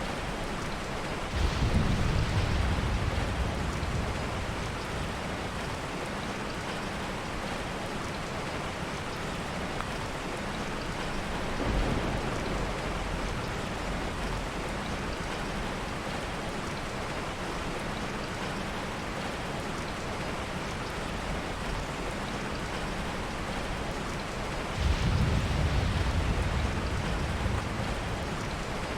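Heavy rain falling steadily, with soft thunder rumbling three times: a low roll about a second and a half in, a weaker one near the middle, and another low roll a few seconds before the end.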